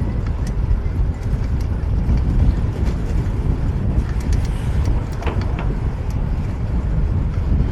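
Wind rumbling on an action camera's microphone while riding a fixed-gear bike through city traffic, with street traffic noise underneath. A brief high squeak comes about five seconds in.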